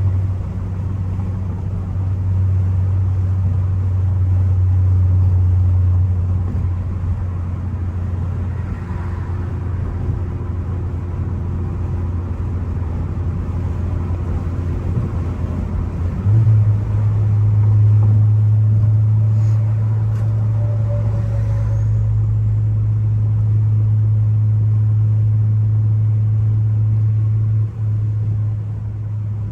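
Ford Focus ST's turbocharged engine running under way, a steady low drone that gets louder suddenly about halfway through.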